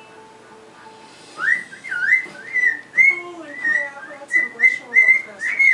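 Pet bird whistling a tune: a run of swooping and short held notes at much the same pitch, starting about a second and a half in.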